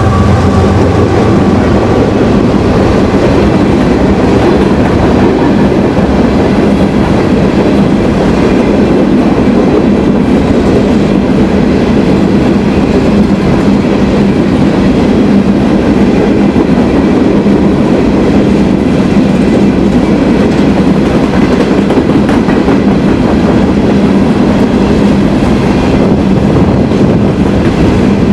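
A long train rolling past at close range, the steady rumble and clatter of its cars' wheels on the rails going on without a break. A locomotive horn chord dies away in the first second.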